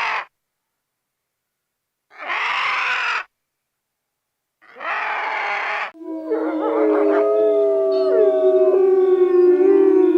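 Two more short, harsh animal calls, then from about six seconds in several animals howling together: long overlapping notes that slide in pitch and then hold.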